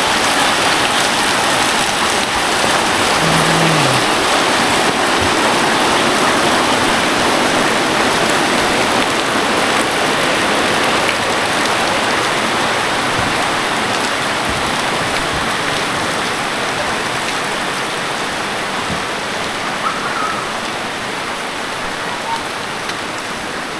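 Rain falling steadily, a dense even hiss that grows a little softer toward the end.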